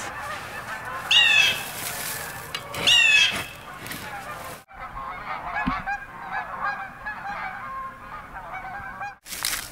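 Geese honking: two loud honks in the first few seconds, then after a sudden break a flock of many geese calling together, fainter and overlapping.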